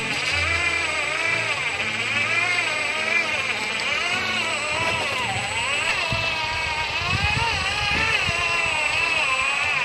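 Truck engine running, its pitch wavering up and down repeatedly.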